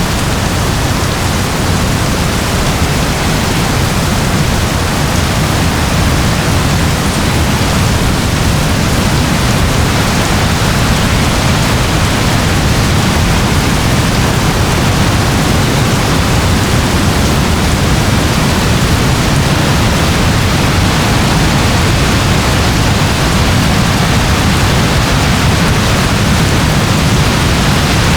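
Steady rain falling: an even, unbroken wash of noise with a heavy low undertone and no single drops or thunder standing out.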